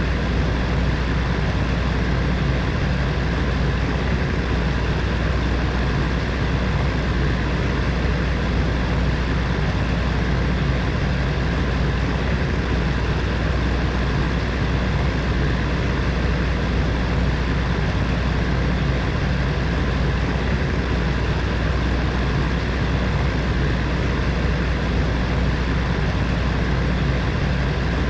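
Heater fan running steadily: an even rush of air over a deep, constant hum.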